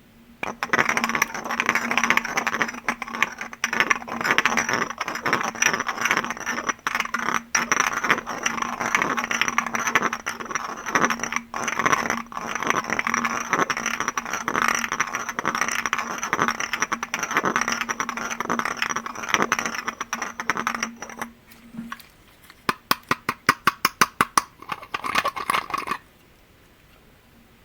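Fingers tapping rapidly on glass objects in a dense, continuous flurry, with a steady ringing note held beneath the taps. About 21 seconds in, the flurry gives way to a run of separate quick, sharp taps, and the tapping stops a little before the end.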